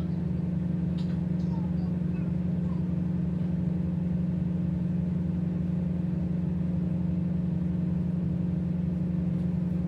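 Tugboat's diesel engines running with a steady, unchanging low drone.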